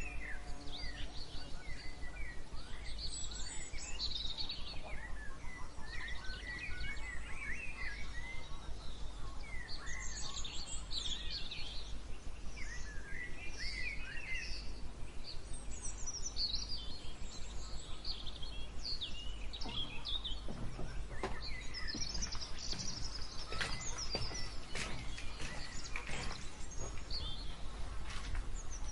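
Several songbirds chirping and singing in overlapping short phrases, over a steady low rumble. Short, sharp notes crowd in during the second half.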